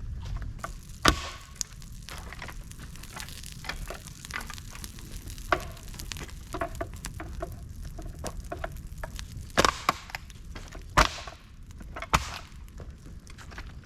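Campfire of dry bamboo and twigs burning in a fire stand, crackling continuously over a low steady rumble, with a few sharp loud pops spread through it.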